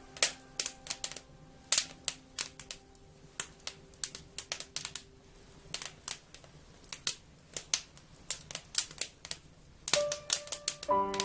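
Wood fire crackling, with irregular sharp snaps and pops several times a second. Soft held notes of background music fade out in the first few seconds and come back about ten seconds in.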